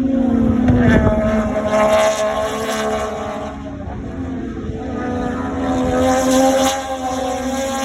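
MotoGP racing motorcycle engines running at high revs on the circuit during qualifying, a loud, steady, high engine note whose pitch sags slightly and then holds.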